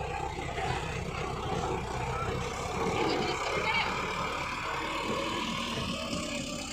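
Mahindra Arjun tractor's diesel engine running steadily with a low, rapidly pulsing rumble.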